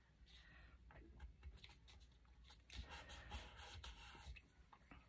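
Faint paper handling: soft rustles and light scattered taps as a small paper label is pressed down onto a manila card tag, a little busier from about the middle.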